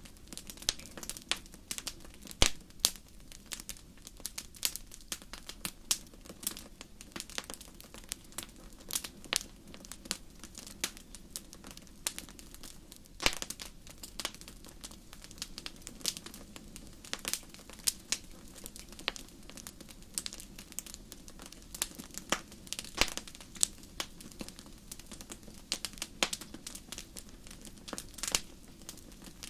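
Wood fire crackling: irregular sharp pops and snaps over a steady low hiss, a few louder pops standing out.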